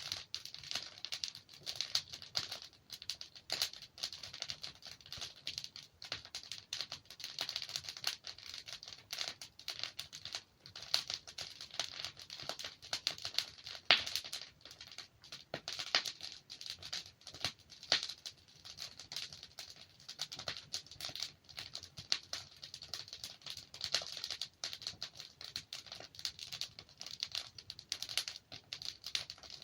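Wood fire burning in a fireplace: dense, irregular crackling of burning logs with occasional sharper pops, the loudest about 14 and 18 seconds in.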